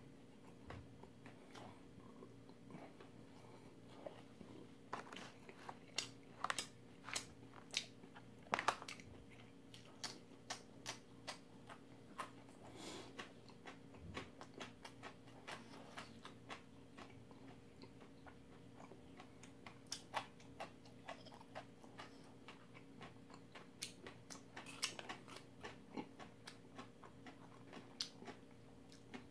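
A person chewing a mouthful of food close to the microphone: irregular mouth clicks and smacks, several a second, over a faint steady hum. The chewing is louder from about six to nine seconds in and again near the end.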